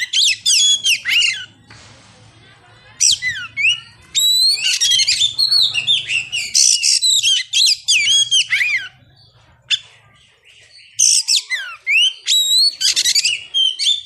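Oriental magpie-robin (kacer) singing loud, fast, varied phrases of sweeping whistles and chirps, in bursts broken by short pauses about two seconds in and again near ten seconds.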